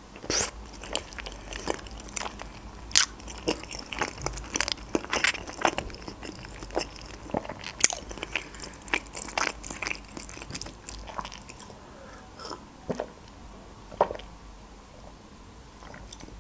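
A person chewing manti (steamed meat dumplings): wet mouth clicks and smacks, many in the first part, thinning out over the last few seconds.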